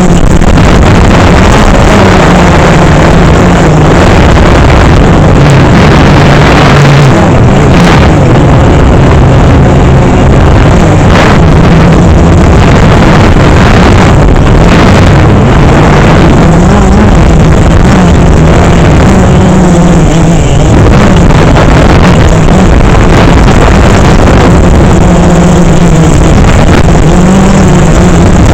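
DJI Phantom 3 quadcopter's motors and propellers running in flight: a loud, steady buzzing hum whose pitch wavers up and down as the motors change speed, over a rushing noise of air and wind.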